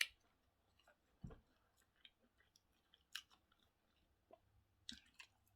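Faint chewing of food, with a few soft, scattered mouth clicks and smacks about once a second.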